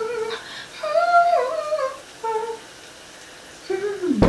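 A person humming a wordless tune in the shower: a few short phrases of held notes that slide from one pitch to the next.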